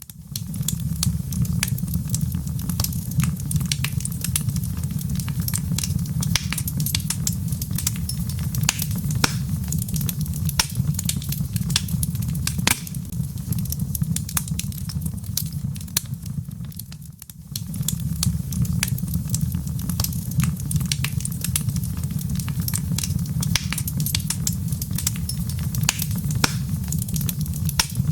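Log fire crackling, with frequent sharp pops and snaps over a steady low rumble. The sound dips briefly about two-thirds of the way through, then comes back.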